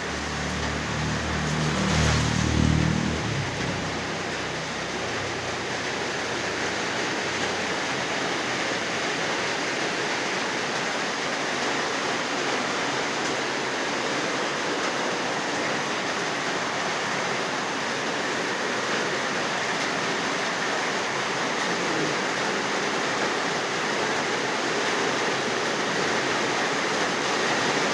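Heavy rain pouring down in a steady hiss. A brief low rumble comes about two seconds in.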